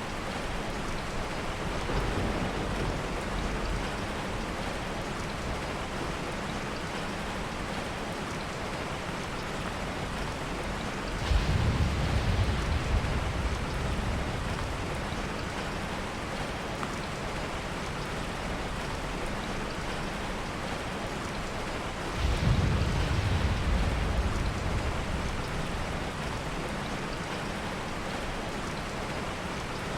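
Heavy rain falling steadily, with two low rolls of soft thunder, one about a third of the way in and another about two-thirds of the way in, each fading over a few seconds.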